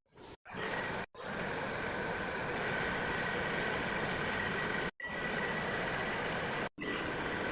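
Steady mechanical running noise from a homemade crank-driven rotary drilling rig at work. It is broken by several brief, abrupt gaps of silence.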